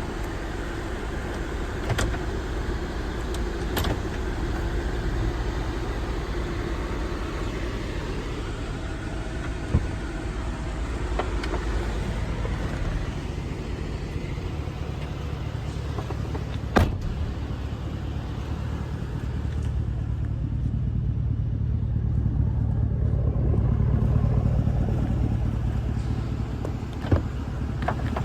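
2020 Chevrolet Silverado 1500 pickup running, a steady low rumble that swells for a few seconds about two-thirds of the way through. A few sharp clicks or knocks are scattered through it.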